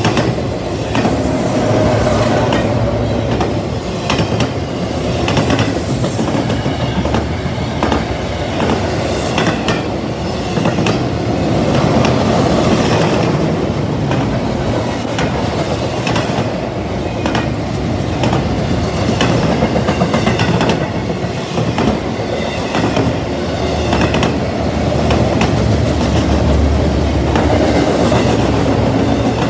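Double-stack container train of well cars rolling steadily past: a continuous rumble of wheels on rail, broken every second or two by sharp clicks as the wheels pass over the track.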